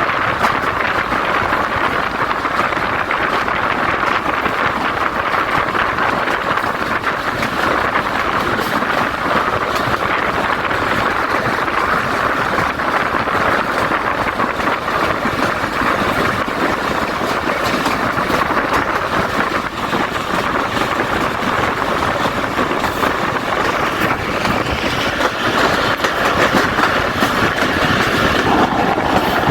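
Passenger train running along the track, a steady rush of wheel and carriage noise that grows a little louder near the end.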